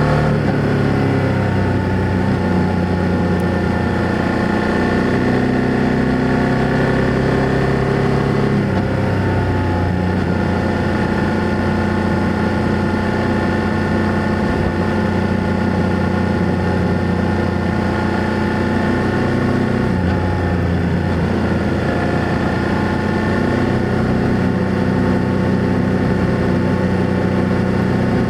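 BMW F800GS parallel-twin engine and exhaust running under way, heard from the bike. Its pitch drops just after the start and steps to new steady notes about eight seconds in and again about twenty seconds in, as the rider changes speed or gear.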